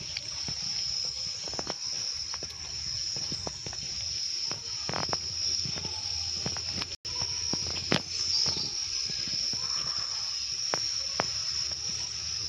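Insect chorus, a steady high-pitched chirring like crickets, with scattered small clicks. The sound cuts out for an instant about seven seconds in.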